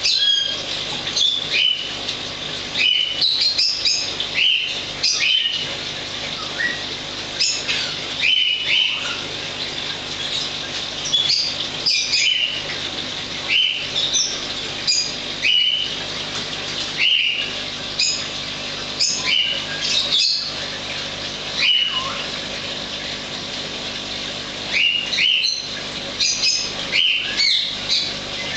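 Small birds chirping, many short sharp calls with quick falling glides, irregular and continuous, over a steady background hiss.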